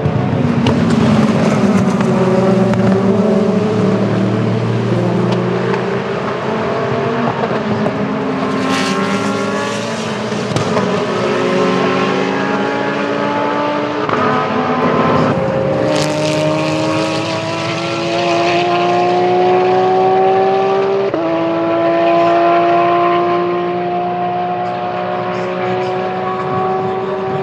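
IMSA sports-prototype and GT race cars running at full throttle, engines climbing steadily in pitch, with several cars overlapping at first. Sharp pitch drops about halfway through and again near the end mark upshifts as the cars accelerate.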